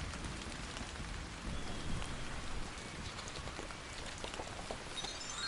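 Rain falling steadily, with scattered drops pattering. Near the end a run of bell-like chime tones starts, stepping down in pitch.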